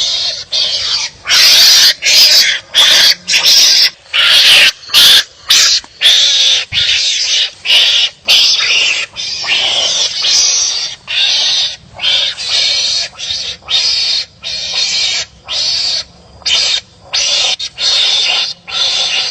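Wild animals barking at each other in a quarrel: a rapid series of loud, harsh calls, each under about a second long, with short gaps between them.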